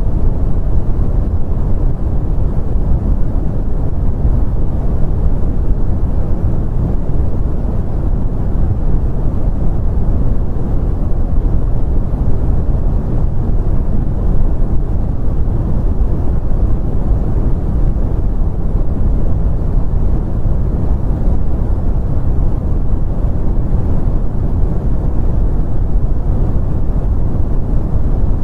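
Steady brown noise: an even, deep rumbling hiss with most of its weight in the bass, unchanging throughout.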